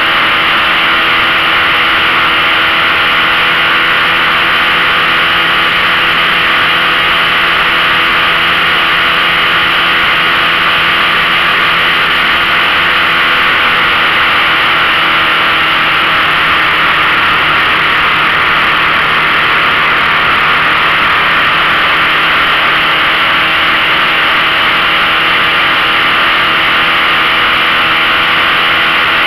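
15 hp outboard motor running at a steady speed under the load of towing, with a strong hiss over it.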